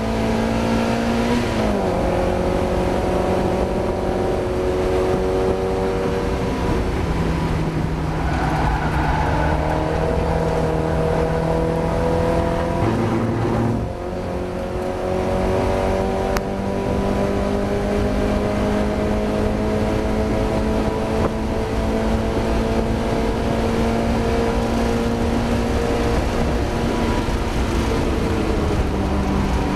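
Mazda MX-5 race car's four-cylinder engine running hard, pitch climbing steadily and dropping sharply a few times as it changes gear. About fourteen seconds in it eases off briefly, then pulls again in a long steady climb.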